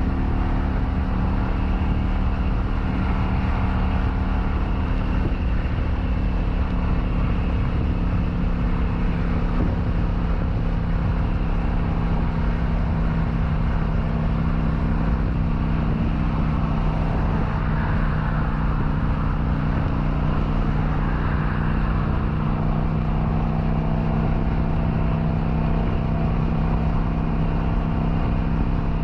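Kawasaki Vulcan 900's V-twin engine running steadily at cruising speed, with a constant rush of wind and road noise.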